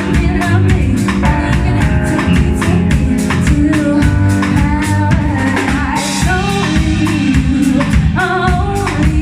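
Live band playing a song, with a drum kit keeping a steady beat under bass and guitar, and a woman singing over it.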